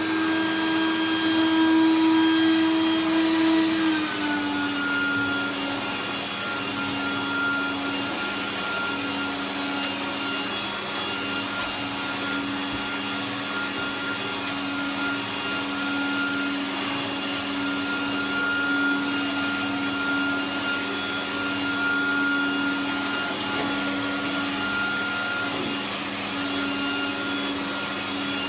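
Hoover Turbopower 1000 bagged upright vacuum cleaner running steadily on its short-pile setting. Its motor whine settles to a slightly lower pitch about four seconds in and then holds.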